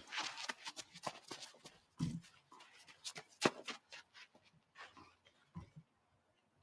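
Tennis court sounds: a scattered series of sharp knocks and clicks, with a few low thuds about 2 and 5.6 seconds in, dying away near the end.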